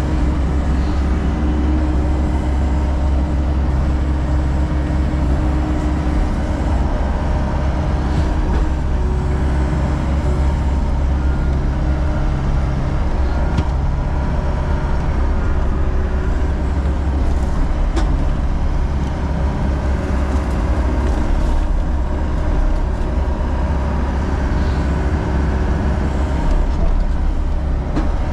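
John Deere 60G compact excavator's diesel engine running steadily, with a strong, even low hum.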